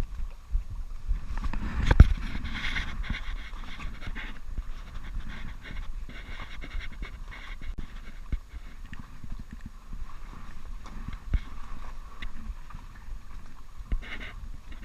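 A man panting hard in quick, rhythmic breaths, with wind rumbling on the microphone and a sharp knock about two seconds in.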